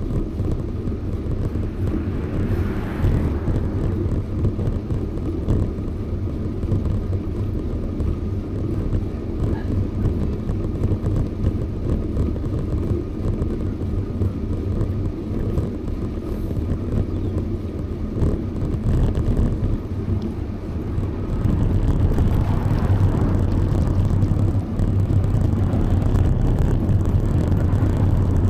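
Steady low rumble of wind and rolling noise on a camera riding on a bicycle, growing louder about 22 seconds in.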